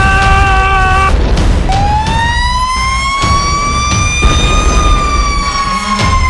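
A siren wailing over a loud low rumble. A steady tone breaks off about a second in, then a long wail rises slowly and sinks again.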